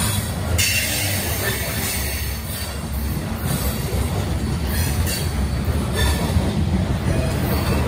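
Covered hopper cars of a freight train rolling past close by: a steady low rumble and rattle of steel wheels on the rails.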